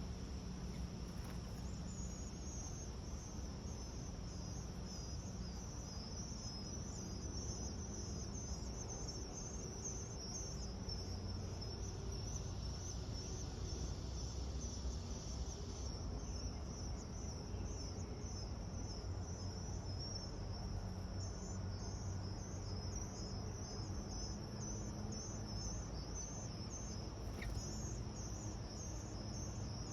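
Insect chorus, most likely crickets: a continuous high, pulsing trill, with a steady low rumble underneath.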